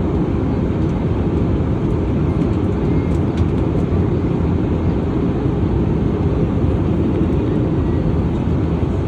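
Steady low roar of an airliner heard from inside the cabin, its engines and the airflow over the fuselage running evenly during the approach.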